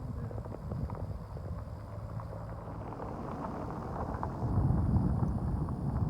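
Wind buffeting the microphone, a low rumble that grows stronger about four and a half seconds in, with scattered faint ticks over it.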